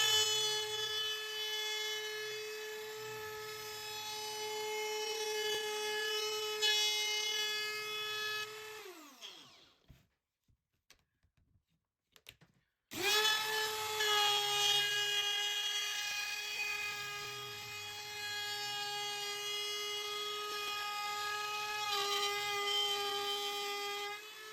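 Router spinning with a high steady whine as it cuts walnut along a plywood template. It winds down about nine seconds in, is off for about three seconds, then starts up again and runs until it winds down near the end.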